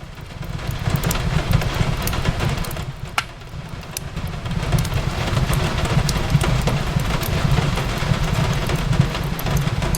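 Wood fire crackling with scattered sharp pops over a steady low rumble, mixed with the hiss of rain on a window. The level dips briefly about three seconds in, then picks up again.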